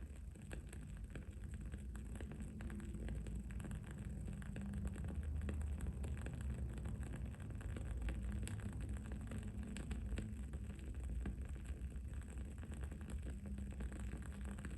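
Wood-wick candle crackling in many small, rapid pops, over a steady low background rumble.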